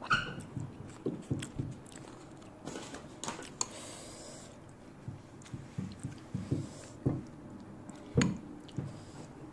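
Close-up chewing of soft chicken rice porridge, with a wet squish now and then and irregular bites, and a few sharp clicks of a spoon against the bowl.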